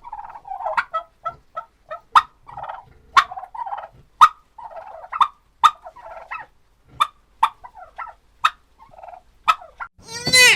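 Domestic fowl calling: chattering clucks punctuated by sharp, clicking notes about once a second, then one louder, ringing call just before the end.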